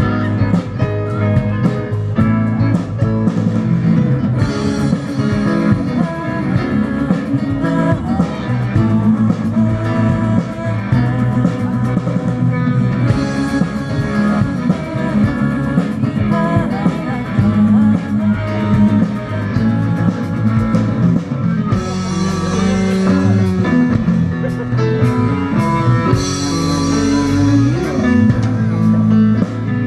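Rock band playing an instrumental passage led by guitar.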